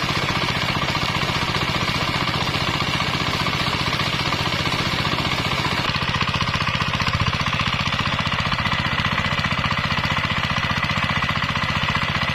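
Kubota 8 hp single-cylinder diesel engine running steadily with a fast, even knocking beat, back in running order after its seized piston was freed.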